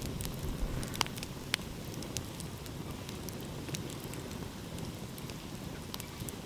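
Wood fire crackling, with scattered sharp pops, the clearest about a second and a second and a half in, over a steady low rush.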